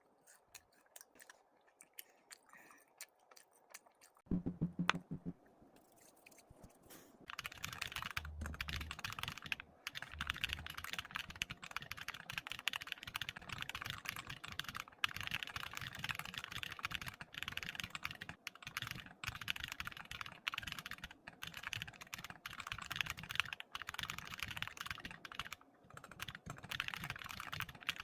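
Typing on a computer keyboard: a few sparse key clicks, then fast, continuous typing from about seven seconds in, with brief pauses. A louder knock about four seconds in, before the typing gets going.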